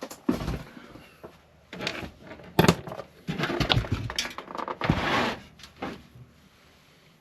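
Computer hardware being handled: irregular knocks, clicks and scraping of metal and plastic parts, with the loudest knock about two and a half seconds in and a busy run of clattering a second later.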